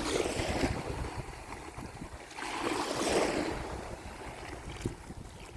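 Ocean surf washing up on a beach, swelling twice, with wind rumbling on the phone's microphone.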